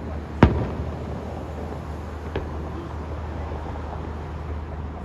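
Aerial fireworks shells bursting: one loud sharp bang about half a second in with a rumbling echo trailing off, then a fainter bang about two seconds later.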